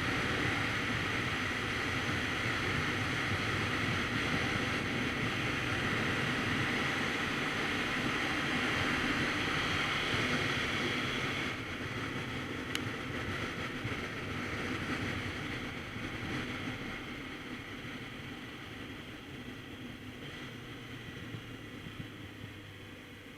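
Wind rushing over the microphone on a moving Kawasaki Z900RS Cafe motorcycle, with the bike's engine running underneath. About halfway through the noise drops suddenly, then keeps fading as the bike slows. There is a single sharp click just after the drop.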